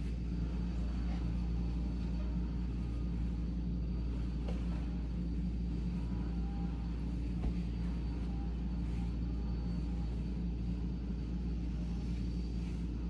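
Vacuum cleaner running steadily in the background, a constant low drone with a thin high whine, with a few faint clicks over it.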